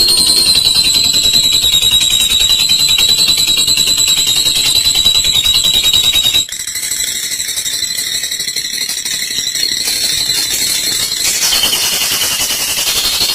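Olive lovebird giving its long 'ngekek' chatter: a fast, high-pitched rattling trill held on and on. It breaks off sharply about six and a half seconds in and carries on a little quieter.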